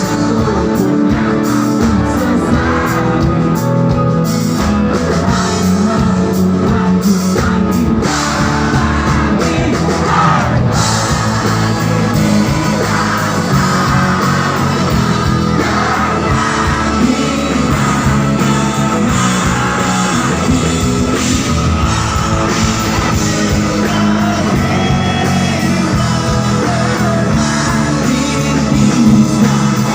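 Rock song playing: electric guitar and drum kit with a singing voice, loud and steady throughout.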